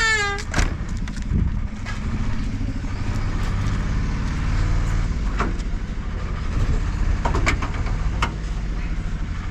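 Muscle car engine running at idle with a steady low rumble, with a few short sharp clicks in the second half.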